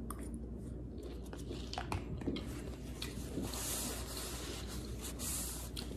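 Close-up chewing of a mouthful of broccoli and shrimp, soft wet mouth sounds with a few light clicks.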